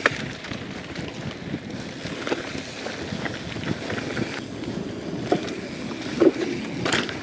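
Mountain bike on a dirt trail: a steady rush of tyre and wind noise with irregular small knocks and rattles.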